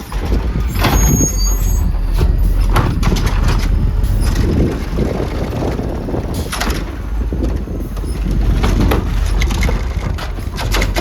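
Garbage truck running with a heavy low rumble, broken by repeated sudden clanks and hissing bursts like air-brake releases, while wind buffets the microphone.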